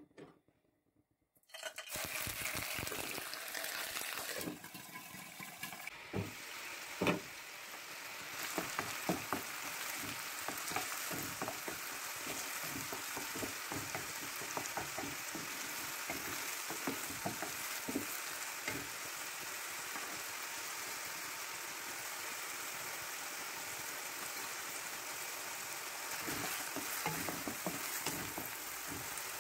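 Chopped onion sizzling in hot olive oil in a nonstick wok, starting about two seconds in. A wooden spatula scrapes and knocks against the pan as the onion is stirred.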